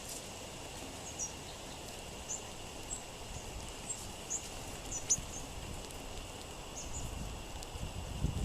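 Small songbirds giving short, high chip calls, scattered irregularly, over a low wind rumble that grows near the end.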